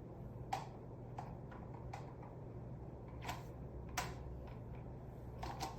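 Faint, scattered clicks and light taps at irregular intervals, the sharpest about half a second in and about four seconds in, over a low steady hum.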